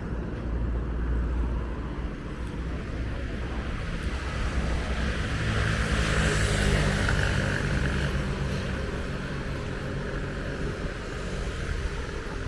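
Road traffic on a busy city street: a steady low rumble, with a vehicle's engine hum and tyre noise swelling as it passes close about six seconds in, then fading.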